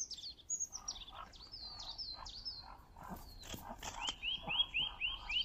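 Small birds chirping: a repeated pattern of high, falling notes throughout, with a quick run of rising chirps about four seconds in. Faint short animal sounds lie underneath.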